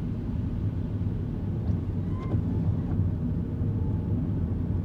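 Kei car driving, heard from inside the cabin: steady low engine and road-noise rumble, with a faint short squeak about two seconds in.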